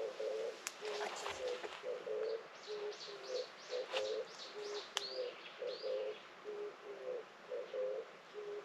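A dove cooing a short phrase over and over, about every second and a quarter. From about two and a half seconds in, another bird adds a quick run of some ten falling chirps, and a few sharp clicks come through.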